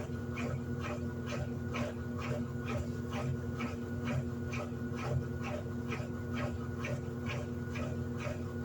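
Electrolux LED14 top-loading washing machine running: a steady motor hum with a regular beat about three times a second.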